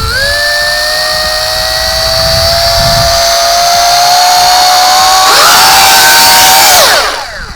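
Small quadcopter drone's electric motors and propellers spinning up to a loud, steady whine that creeps slightly higher in pitch, gets louder about five seconds in, then winds down near the end. Only two of the motors spin, a fault the owner puts down to a damaged control board.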